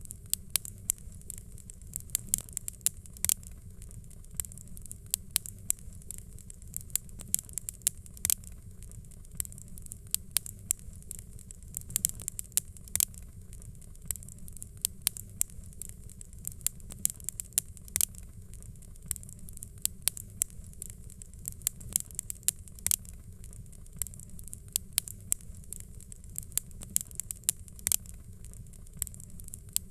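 Fireplace crackling: a steady low rumble of burning with irregular sharp pops and snaps, several a second.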